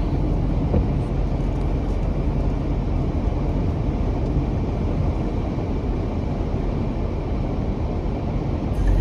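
Steady low rumble of a car driving, engine and tyre noise heard from inside the cabin. Near the end the sound shifts and grows a little louder.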